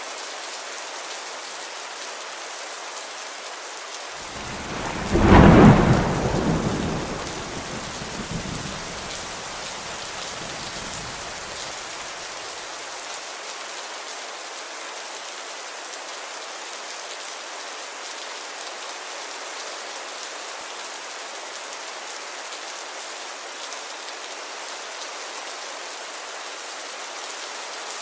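Steady rainfall hissing on a surface, with a single roll of thunder about four seconds in that peaks within a couple of seconds and rumbles away over the next several seconds.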